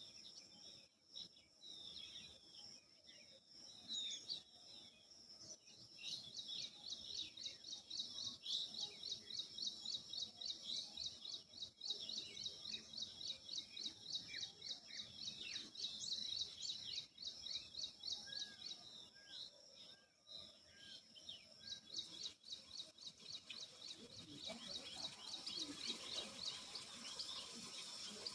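Birds chirping and calling, many short high chirps and trills overlapping, growing busier and denser near the end.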